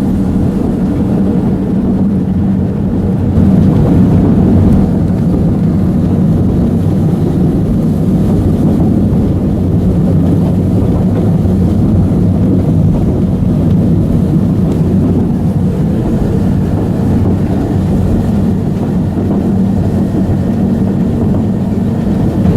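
Steady low rumble of a narrow-gauge railway train running along the track, heard from on board, a little louder for a moment about three seconds in.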